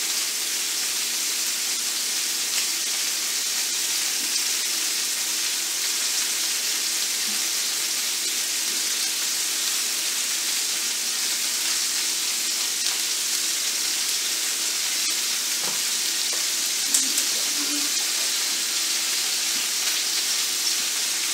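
Ground-beef hamburger patties frying in a pan, a steady sizzle, with a couple of light clicks near the end.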